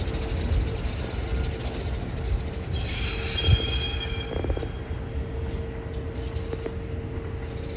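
Kintetsu electric train moving slowly, with a low rumble and a steady hum. High-pitched wheel squeal comes in about two and a half seconds in and fades after about five seconds.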